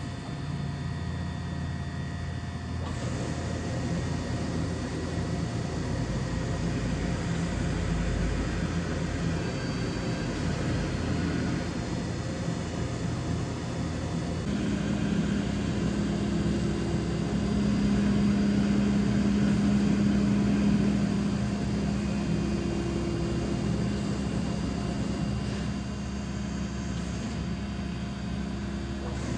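DMG Mori DVF 5000 five-axis machining centre running a program, a steady machine hum with tones that shift about three seconds in and again about halfway through, growing louder for a few seconds after that.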